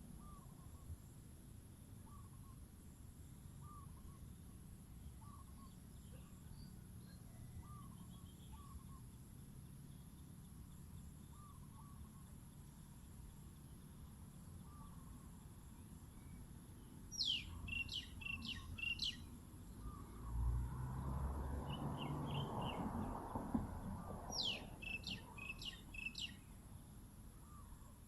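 Wild birds calling: a faint short call repeating about once a second, and two quick clusters of sharp, high, downward-sweeping chirps in the second half. A brief rushing noise comes between the chirp clusters.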